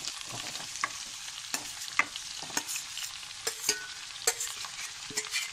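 Chopped ridge gourd being tipped into hot oil in a steel kadai: a steady sizzle of frying, with scattered sharp clicks and clinks of a steel spoon scraping the pieces out of a steel bowl.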